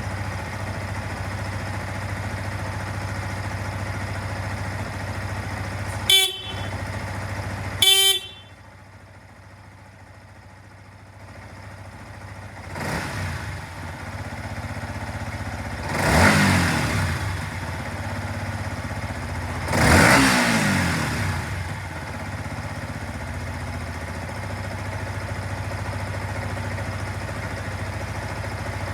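Yamaha YZF-R15's single-cylinder engine idling, with two short horn beeps about six and eight seconds in. The engine then cuts out and is restarted a few seconds later, revved twice in quick blips that fall back, and settles to a steady idle.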